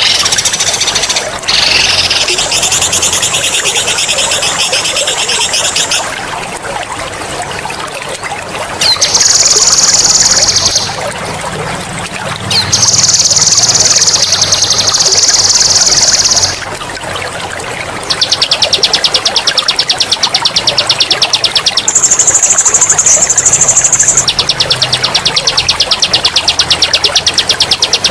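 Songbird singing a run of loud, rapid rolling trills (the 'ngerol' song used for mastering cage birds), each held for a few seconds, some lower and some higher in pitch, over a steady trickle of running water.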